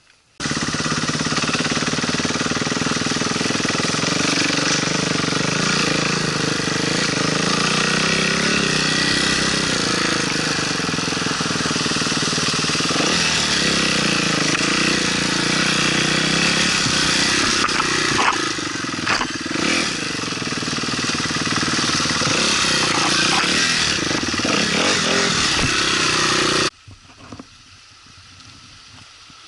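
Enduro motorcycle engine running while riding, its note rising and falling, over a dense noisy hiss. It starts suddenly and cuts off abruptly a few seconds before the end.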